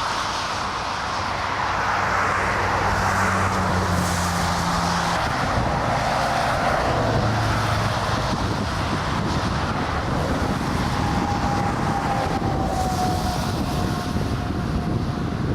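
Airbus A330 jet engines running as a steady rush of noise, with a thin whine that falls slowly in pitch over the second half.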